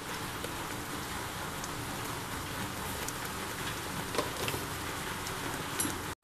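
Bitter gourd masala sizzling in oil in an open aluminium pressure cooker on a gas burner: a steady crackling hiss with scattered small pops.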